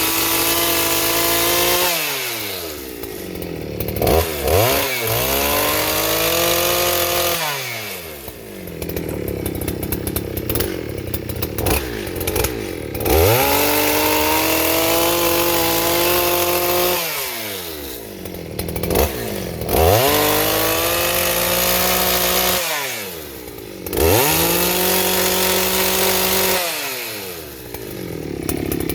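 Big ported and stroked two-stroke chainsaw, running on aviation fuel, revved hard again and again while cutting into a giant pumpkin. Its engine pitch climbs quickly to a high, held note and falls back, several times over.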